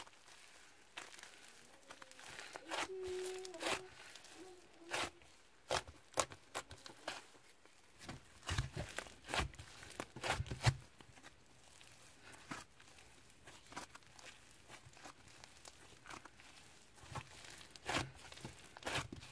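Slime being squished and stretched by hand, making irregular sticky clicks and crinkly crackles, busiest and loudest around the middle.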